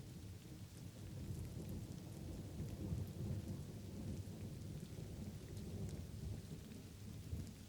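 Light rain falling steadily, with a low rumble of distant thunder that swells about a second in, peaks around three seconds, then slowly fades back.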